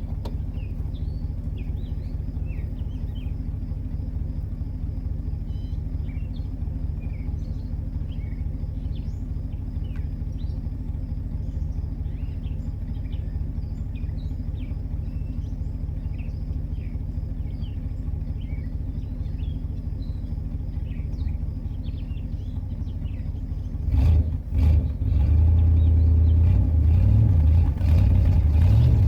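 Ford Galaxie's carbureted engine running on a dose of B12 Chemtool cleaner poured down the carburetor for an Italian tune-up: a steady idle, then revved harder and louder from about 24 seconds in.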